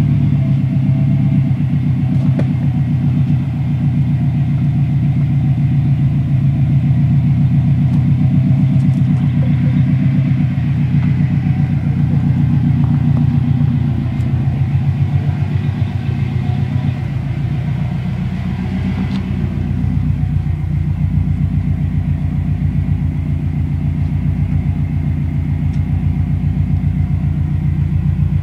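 A 2004 Subaru WRX STI's turbocharged 2.5-litre flat-four engine idling steadily, with a low, even exhaust rumble.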